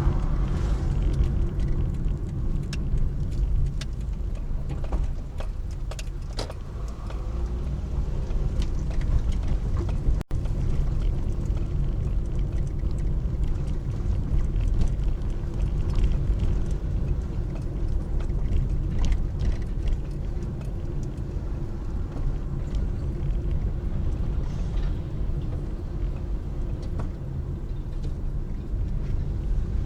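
Steady low rumble of a car on the road, engine and tyre noise, with faint scattered clicks and rattles; the sound drops out for an instant about ten seconds in.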